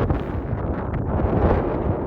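Strong wind buffeting the microphone: a low, dense rumble that rises and falls in gusts.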